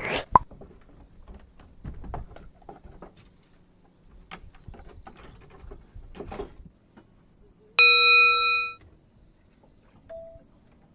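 A single bell-like ding, about a second long, sounding near the end over scattered knocks and clicks.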